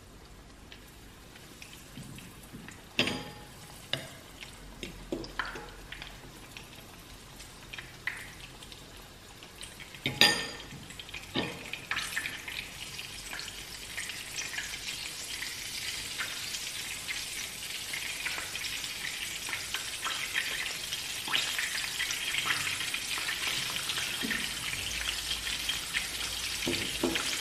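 Battered parasol mushroom pieces frying in shallow oil in a pan, the sizzle building and getting steadily louder through the second half. Earlier there are scattered clicks and knocks, the loudest a sharp knock about ten seconds in.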